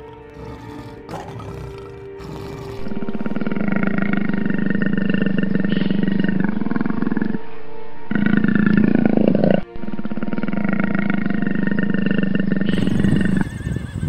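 Background music, then from about three seconds in a large animal's loud roaring: three long drawn-out calls with short breaks between them.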